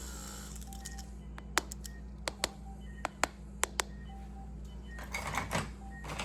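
Metal surgical instruments tapped and clinking in a series of about seven sharp clicks, followed by a rustle of handling near the end. Underneath runs a steady hum with short electronic beeps repeating.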